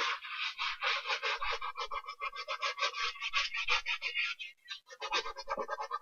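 A brush scrubbing a sneaker in rapid back-and-forth strokes, about six a second, pausing briefly near the end before carrying on.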